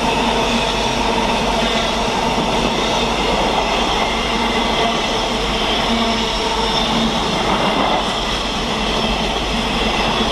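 Class 66-hauled freight train's wagons rolling past at speed, with steady wheel-on-rail noise.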